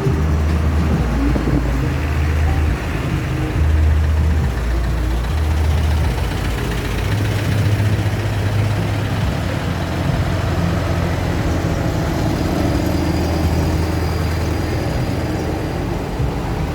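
Tractor engines running with a steady low rumble that pulses unevenly for the first few seconds and then evens out.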